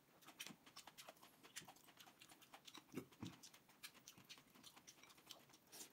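Faint chewing and lip-smacking of a person eating stewed pickled cabbage (suancai): many small, wet mouth clicks, irregularly spaced, with a couple of louder smacks about three seconds in.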